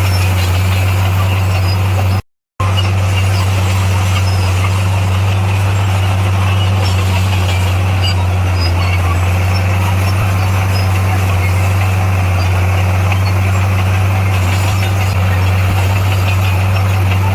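Heavy earthmoving machine's diesel engine running steadily with a deep, even drone. It cuts out completely for a moment about two seconds in.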